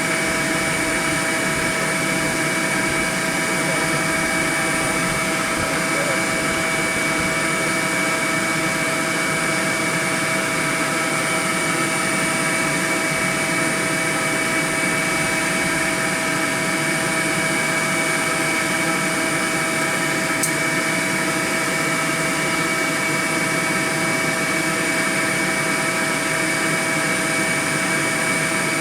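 A swarm of bees buzzing: a steady, dense hum that holds level without a break.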